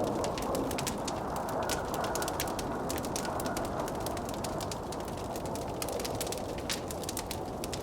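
A wood fire crackling with a dense, irregular stream of small pops, over the steady rushing and moaning of blizzard wind.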